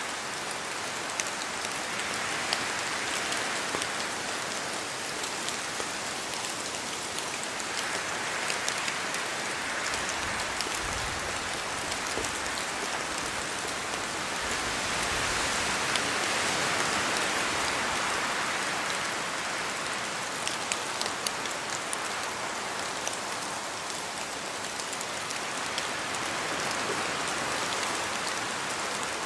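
Steady rain falling through forest trees, with many individual drops landing close by as sharp ticks. The rain hiss swells and eases every several seconds with gusts of wind.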